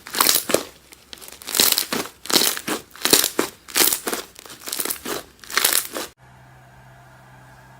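Slime being squeezed and pressed by hand, crackling and crunching in repeated bursts one or two a second. About six seconds in it cuts off abruptly to a quiet steady hum.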